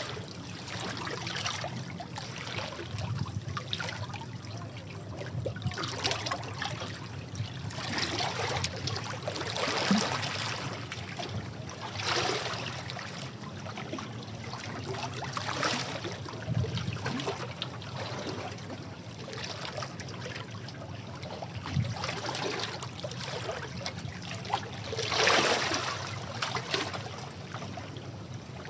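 Sea waves washing against rocks, splashing and draining in irregular surges, with bigger splashes about ten seconds in and near the end.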